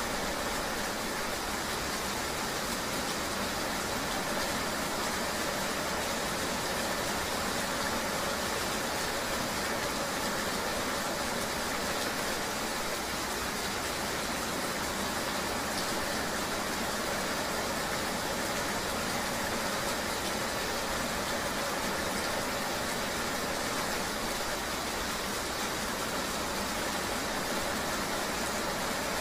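Steady rain noise blended with the even hum of a moving vehicle, with no distinct events.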